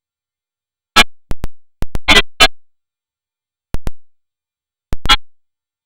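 Sharp electronic drum-machine hits in a few irregular clusters, with dead silence between them.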